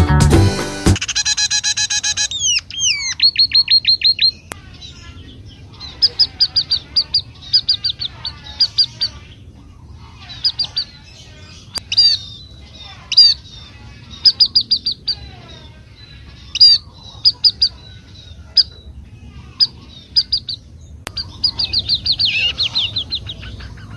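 Forest songbird calls: short bursts of rapid, high chirping notes, repeated every second or so, with fainter bird calls behind. A guitar tune fades out about a second in.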